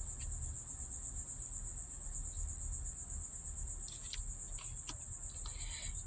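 Steady high-pitched chorus of crickets, pulsing evenly, over a low rumble, with a few faint ticks in the second half.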